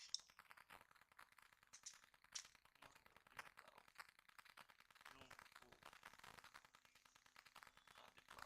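Faint clicks and scrapes of a screw and metal washer being handled while they are fitted to a scooter's plastic fairing, a few sharp clicks spread through otherwise near silence.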